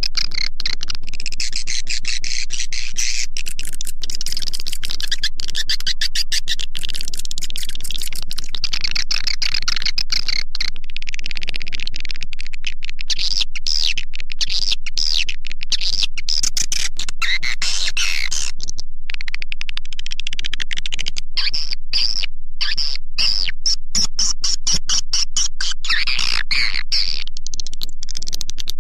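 Swiftlet call-lure recording: a dense, high-pitched stream of rapid swiftlet chirps and twitters at a constant level, processed for playback through tweeter speakers to attract swiftlets to a nesting house. It pauses briefly a couple of times past the middle.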